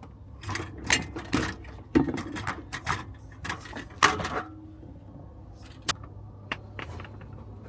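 Gear being unloaded and handled: an irregular series of knocks, clunks and clicks, some with a short ringing, over a faint steady low hum.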